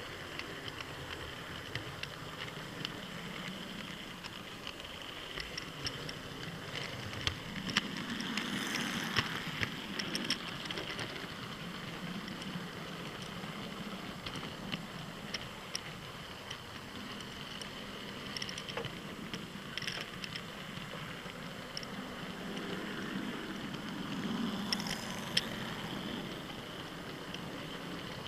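Model trains running on the layout track: a steady motor hum and wheel noise with many small clicks over the rails, swelling twice as a train passes close by.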